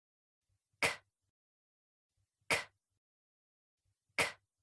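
A voice saying the phonics sound /k/ three times, about 1.7 s apart: each one a short, breathy 'k' burst with no vowel after it.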